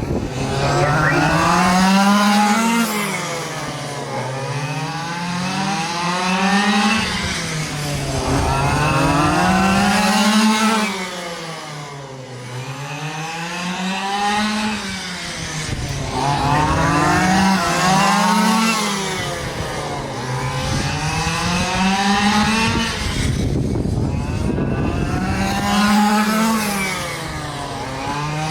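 Pack of quarter-scale RC super trucks racing, their small gas engines revving up and easing off together in a rising and falling cycle roughly every four seconds as they circle the track.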